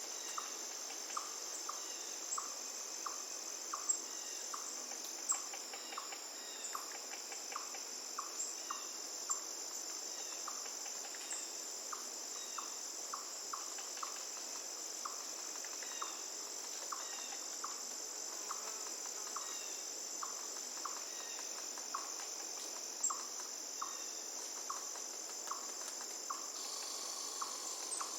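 Steady high-pitched insect chorus with a short chirp repeating about twice a second.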